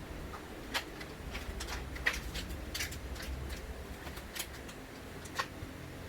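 Irregular light clicks and taps, about a dozen spread over several seconds, the sharpest near the start, in the middle and near the end, over a low steady hum.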